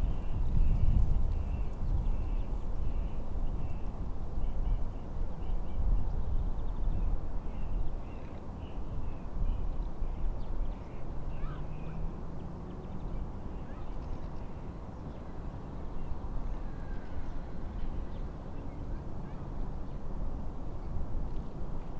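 Wind rumbling in gusts across the microphone, with a small bird giving short, quickly repeated chirps through roughly the first half.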